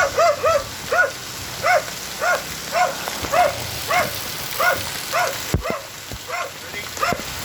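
Rain falling steadily, with an animal calling over it in a regular series of short calls that rise and fall in pitch, about two a second. The calls fade away about five seconds in.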